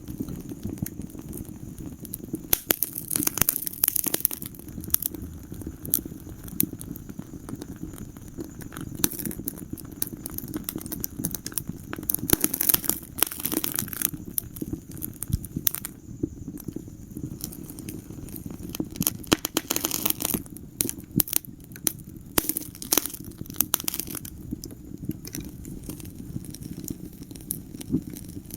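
Wood fire burning in a fireplace, crackling with irregular sharp pops and snaps over a steady low rumble of flames. The pops come in thicker bursts now and then.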